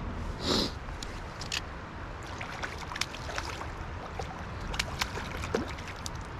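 A shallow stream running steadily, with scattered small splashes and drips as a freshly caught trout is handled in the water.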